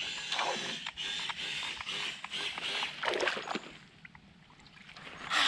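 Small electric motor of a toy racing boat running on water, its buzz coming and going in irregular spurts with shifting pitch and dropping away about four seconds in.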